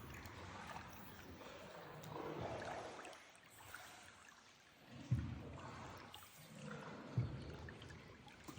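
Water trickling and lapping around a small paddled boat, with a couple of dull knocks about two seconds apart.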